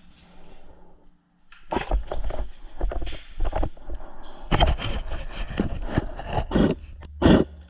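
Irregular knocks, clicks and rustling of an airsoft player's gear as he moves, with a loud sharp knock near the end.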